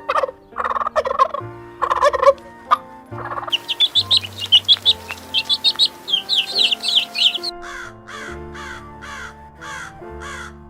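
Animal calls over soft background music: four short calls about half a second apart, then a few seconds of rapid high chirping, then a run of about seven quick calls that each sweep downward.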